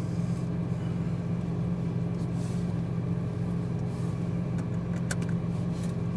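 Ferrari 458 Italia's V8 idling steadily, a constant low hum heard from inside the cabin, with a few faint clicks.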